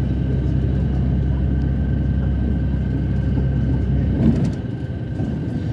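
Steady low engine and road rumble of a moving vehicle, heard from inside it, easing off about four and a half seconds in.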